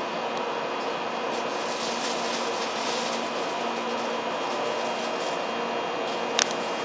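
Steady running noise of a 700 series Hikari Rail Star Shinkansen train, with a few steady tones over an even rush and a single sharp click near the end.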